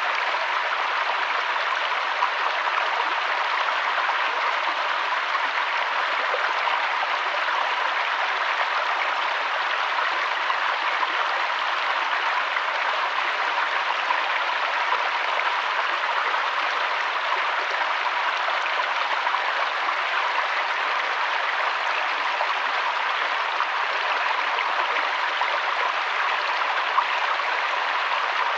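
Steady rushing of flowing river water, an even splashing hiss with small scattered droplet ticks.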